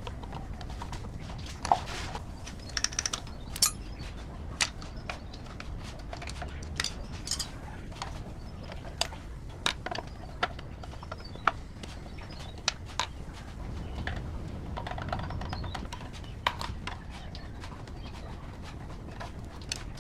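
Scattered sharp clicks and taps, irregularly spaced about one a second, over a steady low rumble.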